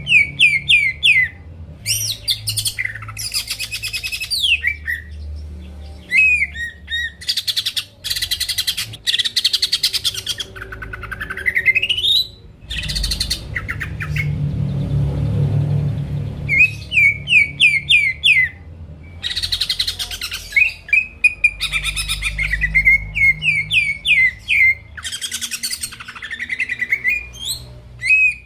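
Cucak ijo (green leafbird) in full, continuous song. It sings loud rapid phrases: runs of short downward-slurred notes, fast trills, and a long rising whistle about twelve seconds in. A low rumble runs underneath.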